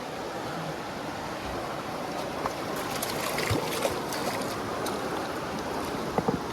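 Flowing river water rushing steadily, with a few short clicks about three to four seconds in.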